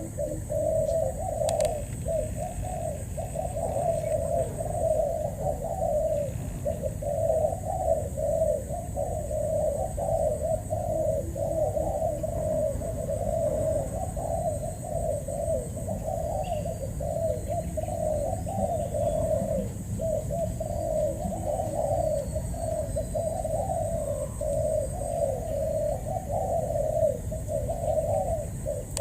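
Spotted doves cooing in a dense, unbroken run of low coos, with a faint steady high whine behind and a few faint chirps of small birds.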